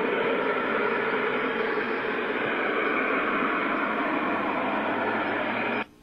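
Continuous loud roar of steam venting from an energy-from-waste plant under testing, a steady rushing noise likened to a jet or a giant pressure cleaner. It cuts off abruptly near the end.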